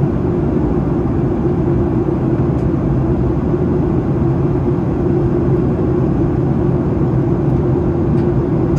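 Steady cabin noise of a Boeing 737-800 in descent: engine and airflow noise heard from inside the cabin, an even rumble with most of its weight low down. The engines are CFM56-7B turbofans.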